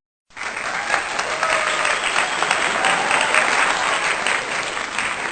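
Crowd applauding, a dense steady clatter of clapping that starts suddenly just after a cut.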